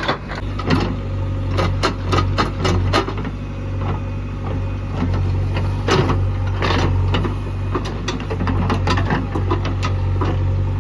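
Heavy diesel engine running steadily, with frequent irregular clanks and knocks over it.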